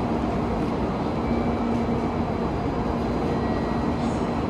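Steady hum and rumble of a shinkansen train standing at the platform before departure, with a constant low drone and no change in level.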